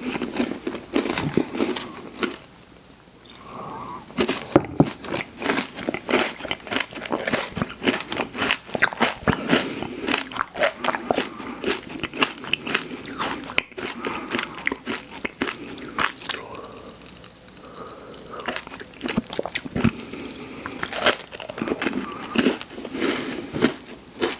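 Close-up mouth sounds of someone biting and chewing a crunchy snack: many sharp, crackly crunches one after another, with a short quieter pause about two seconds in.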